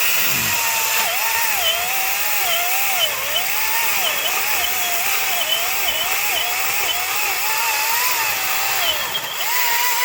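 Echo DCS-2500T battery chainsaw cutting a felling notch into a tree trunk. Its motor whine drops and recovers over and over as the chain bites into the wood, then runs back up near the end.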